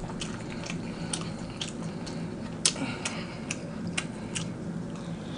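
Close-miked chewing: irregular wet mouth clicks and smacks from a man eating, over a low steady hum.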